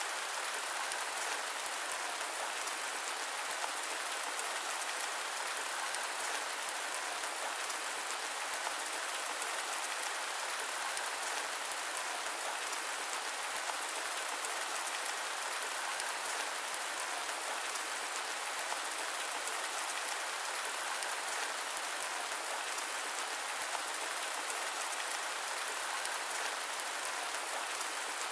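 Steady rain: a dense, even patter of drops over a constant hiss, thin, with no low rumble and no change throughout.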